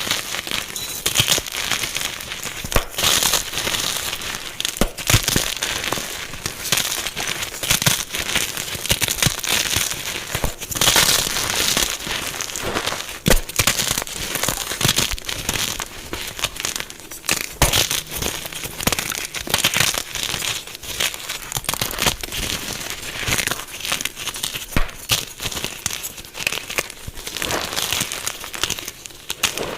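Dyed gym chalk blocks being crushed and crumbled: a dense, continuous crunching with many sharp snaps and crackles.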